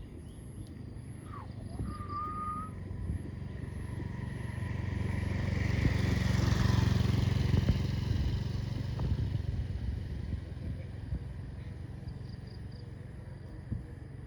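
A motor vehicle's engine passing by, growing louder to a peak about halfway through, then fading away.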